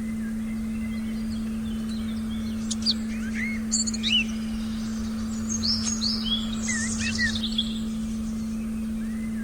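Forest birds chirping and whistling in short phrases, busiest around three to four seconds in and again around six to seven seconds, over a steady low sine-like tone played as a meditation frequency.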